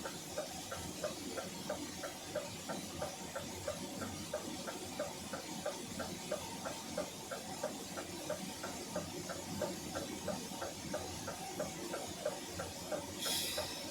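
Rapid, even mechanical ticking over a low steady hiss, with a short hiss near the end.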